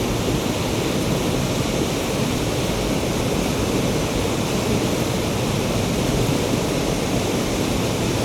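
Mountain stream water rushing: a steady, even noise.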